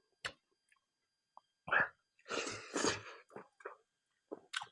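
Close-miked human mouth and breath sounds: a few short clicks, then a brief voiced sound followed by two hissing bursts of breath lasting about a second, like a sneeze.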